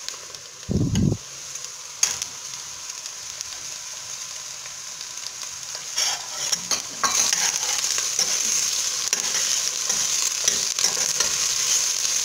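Onions and chopped red and green peppers sizzling in hot oil in a stainless steel pot while a metal spoon stirs and scrapes them, with a few clicks of the spoon. There is a dull thump about a second in, and the sizzle grows louder about seven seconds in as the green peppers go in.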